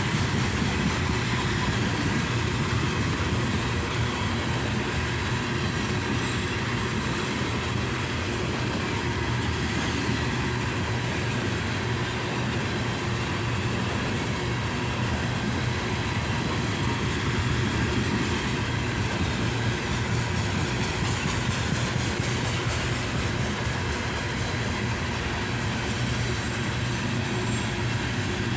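Coal train's hopper cars rolling past at steady speed: a continuous rumble and rush of steel wheels on rail.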